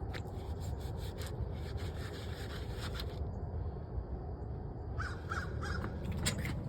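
Crows cawing a few times over a steady low rumble, with scattered short taps and rustles.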